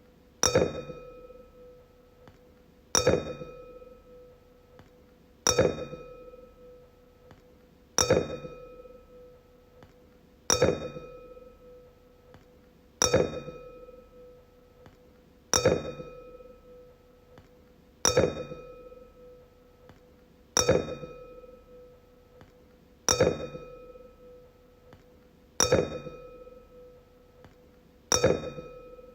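Wine glass struck about every two and a half seconds, twelve times in all. Each tap rings out as a clear tone with bright overtones and fades away before the next one.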